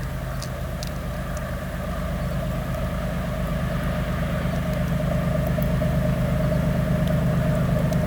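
Diesel locomotive engine running with a steady low throb and a held mid-pitched tone, growing gradually louder.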